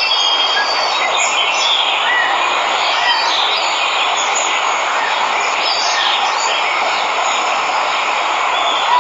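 Steady rush of falling water from a waterfall, with scattered short bird chirps over it.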